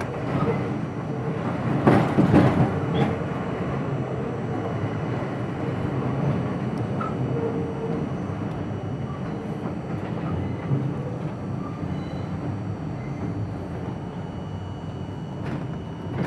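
R42 subway car running along the track, heard from inside at the front window: a steady rumble of wheels on rail, with a cluster of louder clacks about two seconds in.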